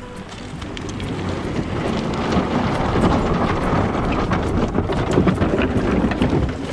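Dinghy hull scraping and grinding over a rocky beach as it is dragged down to the water, a rough continuous scrape with many small knocks that grows louder from about a second in; the rocks are chipping the bottom paint.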